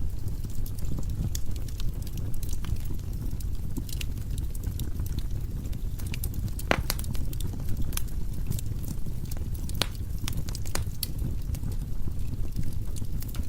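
Firewood burning in a fireplace: a steady low rumble of the flames with scattered sharp crackles and pops from the logs, one louder pop about halfway through.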